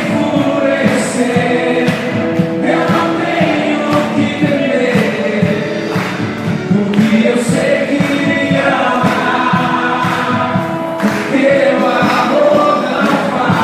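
Gospel worship song: several voices singing together over accompanying music with a steady beat.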